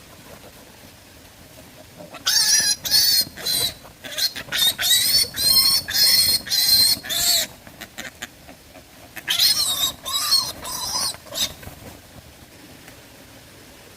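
An animal's high-pitched calls in two bouts of short, repeated, pitch-bending cries, the first lasting about five seconds and the second about two, over a faint steady background.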